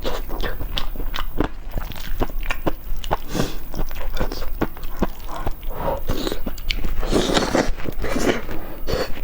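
Close-miked eating: a person biting and chewing eggs, with many quick wet mouth clicks and smacks, busiest in the second half.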